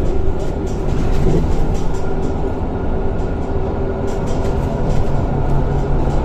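Scania K230 bus heard from inside while under way: diesel engine and ZF automatic gearbox running steadily with road rumble and light interior rattles. A whine fades about a second and a half in, and a lower steady drone comes in near the end.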